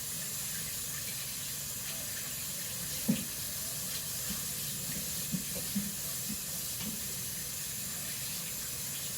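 Kitchen sink tap running steadily while hands are washed, with a few light knocks about three and five seconds in.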